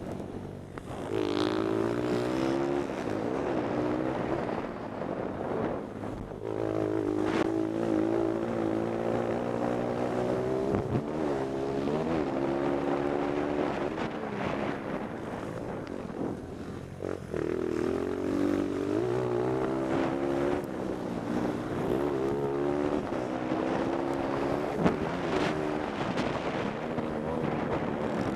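Pit bike engine racing, its revs climbing and dropping again and again through gear changes and corners. There is wind noise on the helmet-mounted microphone.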